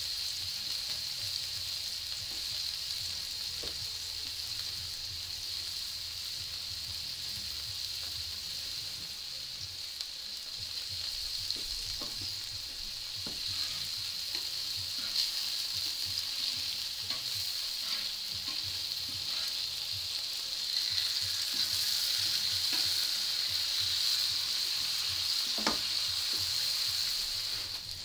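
Hamburger patties sizzling steadily on a hot flat-top griddle, a little louder about two-thirds of the way through. Occasional light clicks and taps of metal tongs against the griddle as the patties are turned.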